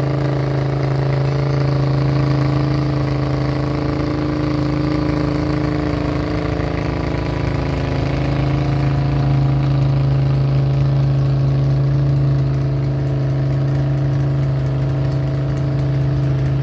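Modified lawn tractor engine running steadily at a nearly constant pitch.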